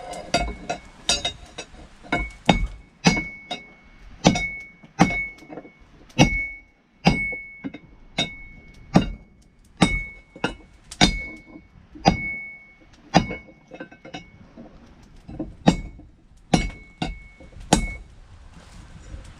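Hand hammer striking hot wrench steel on an anvil while forging it: steady blows about once a second, each with a short, high ring, with lighter taps between some, stopping near the end.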